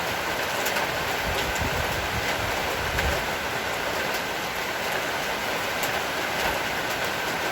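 Heavy rain falling steadily: a dense, even hiss with scattered sharper ticks of drops striking close by.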